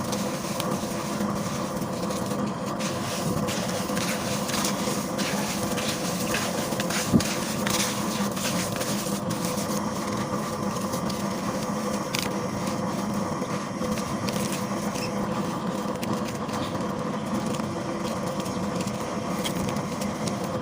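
Gritty paste being crumbled by hand, a run of small crackles over a steady hum, with one sharp click about seven seconds in.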